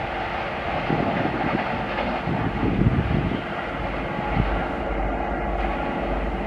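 LHB passenger coaches of a superfast express passing close by at about 110 km/h: a steady rolling rumble of wheels on rail, with a few heavier knocks from the wheels over the track, about a second in, near the middle and past halfway.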